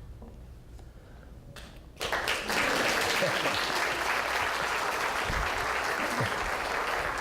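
Audience applause breaking out suddenly about two seconds in, after a quiet pause, and continuing steadily.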